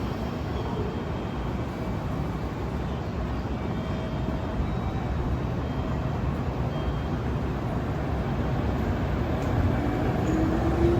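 JR Kyushu 811 series electric train: a steady low rumble that slowly grows louder, with a faint rising motor whine coming in near the end.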